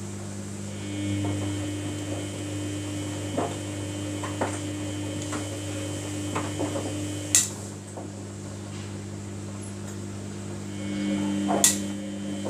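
Samsung washing machine humming steadily, with a higher whine that starts about a second in, cuts off with a sharp click near the middle and comes back near the end. Scattered light clicks and knocks run through it.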